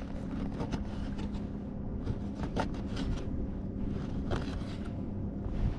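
Knife cutting bait on a cutting board: scattered short taps and scrapes over a steady low rumble with a faint hum.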